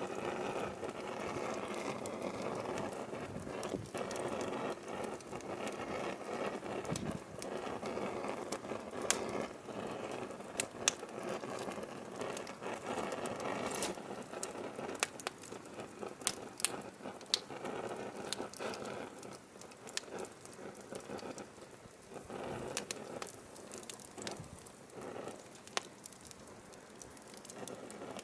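Burning firewood crackling: a steady rush of flames with many sharp, irregular pops and snaps from the wood, the rush growing quieter in the second half.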